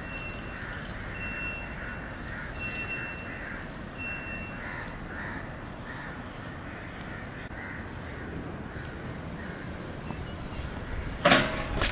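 Repeated short bird calls, about two a second, over steady outdoor background noise, with a brief high whistled tone four times in the first few seconds. A loud sharp knock sounds near the end.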